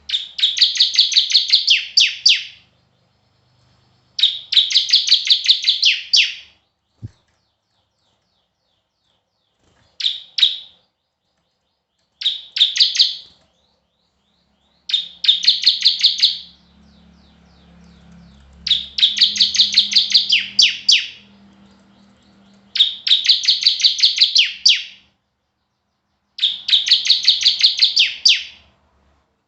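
A small songbird singing in repeated bouts of rapid, high, sharp notes, each bout about two seconds long, with short pauses between them.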